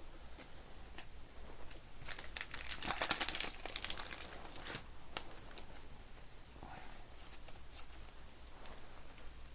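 Crinkling and crackling of plastic or foil trading-card packaging handled by hand, a dense run of crackles about two to five seconds in, with scattered small clicks before and after.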